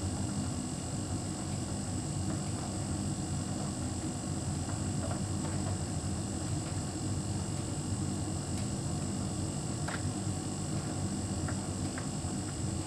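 Hotpoint heat pump tumble dryer running: a steady hum, with a few faint clicks from the drum.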